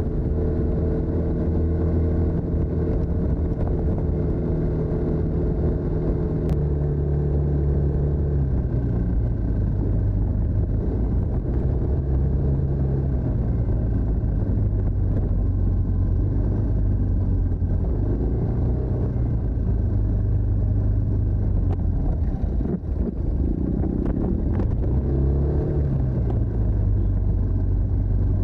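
TVS NTorq 125 scooter's single-cylinder engine running through its stock exhaust. The engine note holds a steady pitch for the first several seconds, drops about eight seconds in, wanders lower, and rises briefly near the end. A steady rushing noise runs underneath.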